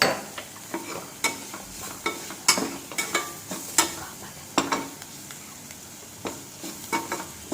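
A spoon stirring a spiced onion-and-vegetable masala in a frying pan, scraping and clacking against the pan at an uneven pace over a low sizzle of oil.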